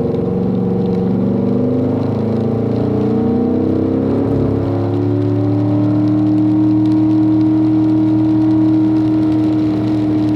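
Car engine accelerating under throttle on a straightaway, its pitch climbing for about five seconds and then holding steady at a constant speed.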